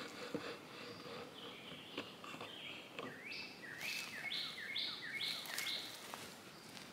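A songbird singing, ending in a quick run of about seven repeated sweeping notes, roughly two a second, starting about three seconds in. A couple of faint clicks are heard.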